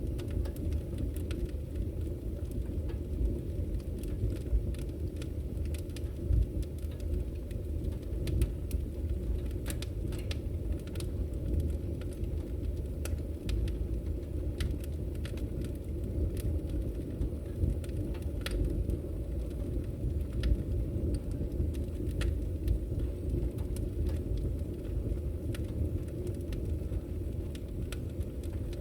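Wood fire burning: a steady low rumble of flames with scattered sharp crackles and pops of the firewood.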